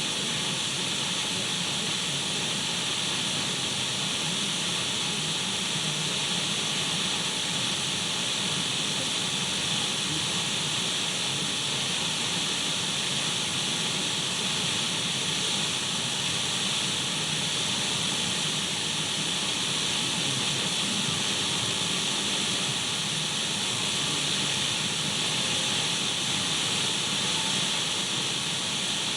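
Radio static: an untuned radio's steady hiss, brightest in the upper-middle range, with no change or breaks.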